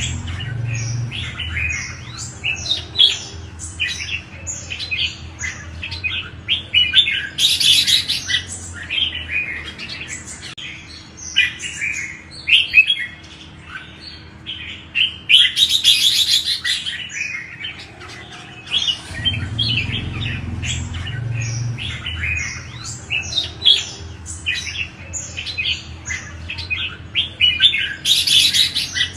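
Red-whiskered bulbuls singing: a continuous run of quick chirped, whistled phrases, with three louder, harsher bursts about eight, sixteen and twenty-eight seconds in.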